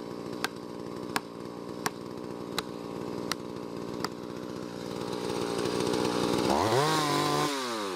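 Chainsaw idling steadily while a hammer strikes a felling wedge about every 0.7 seconds, with sharp regular knocks. Near the end the chainsaw revs up and down.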